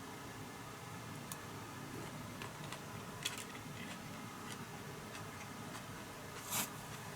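Scattered light clicks and taps over a low steady hum, with a sharper click about three seconds in and a brief rustle near the end.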